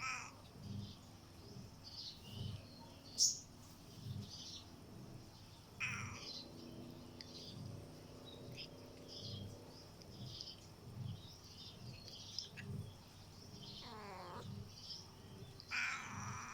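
A black stray cat meowing several times, each meow falling in pitch, with a louder one near the end. Faint low thumps repeat steadily underneath, and faint high chirps come and go.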